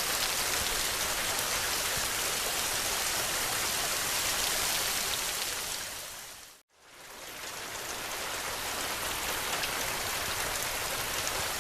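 Heavy rain pouring steadily, an even hiss. About two-thirds of the way through it fades briefly to silence and swells back, as at the join of a looped recording.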